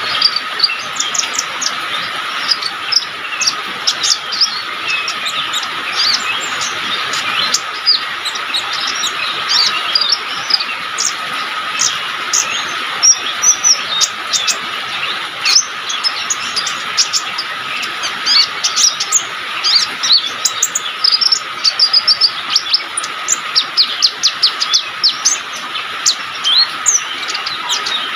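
Small songbird of the kind called 'konin' in Indonesian bird-keeping, singing a fast, unbroken stream of high, sharp chirps and trills. A steady high hum runs underneath.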